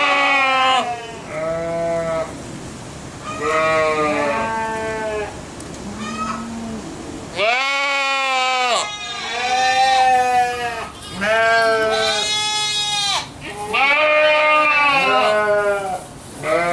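Goats bleating loudly over and over, about nine drawn-out calls at varying pitches, one after another. The goats are hungry and calling for food.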